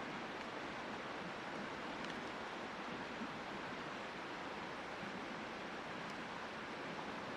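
Steady rushing of flowing river water, an even hiss-like wash with no distinct events.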